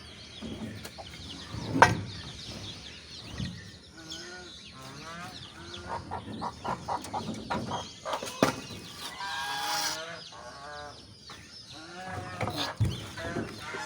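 Chickens clucking, with chicks cheeping throughout in short high calls. A sharp knock comes about two seconds in, and a rustling clatter comes a little before the ten-second mark.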